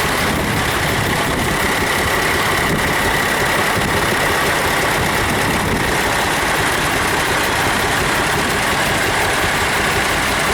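Several old Ford tractor engines running slowly together, a steady rattle.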